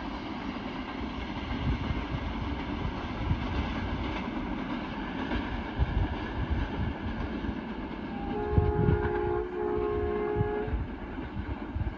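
Passenger train rumbling along the track as it draws away. About eight seconds in, a diesel locomotive's horn sounds a chord of several notes in two long blasts, back to back.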